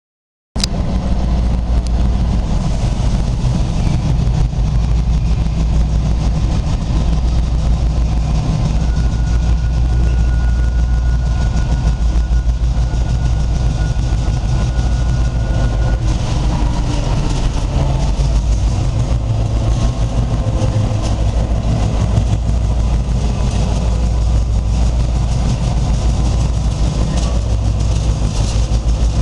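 Diesel engine of a Class 310 shunting locomotive running steadily, a deep even drone. A faint thin high tone sounds for several seconds in the middle.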